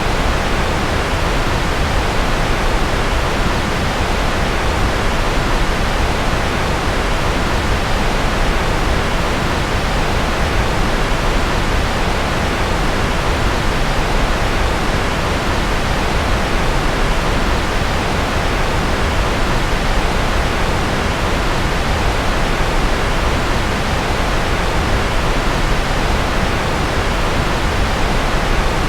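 Steady, unbroken rushing noise like pink noise, heavier in the lows and thinning toward the top, with no change over the whole stretch: a continuous rocket-engine white-noise track for sleep.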